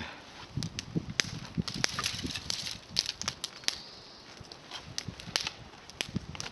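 Small campfire of climbing-rose twigs crackling, with irregular sharp snaps and pops throughout and a few low thuds.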